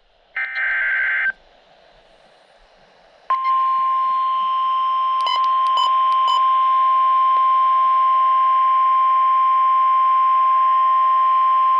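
NOAA weather radio sounding a warning alert: a one-second buzzy burst of coded data tones (the alert header), then after a short pause the long, steady 1050 Hz warning alarm tone. Three short beeps sound over the tone about half a second apart. This is the signal for a severe thunderstorm warning.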